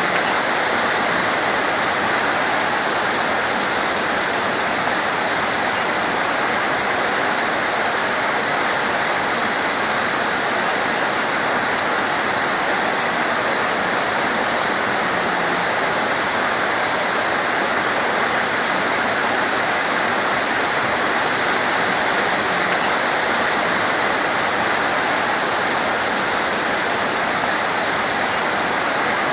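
Torrential rain pouring down in a steady, dense hiss, with one faint sharp tick about twelve seconds in.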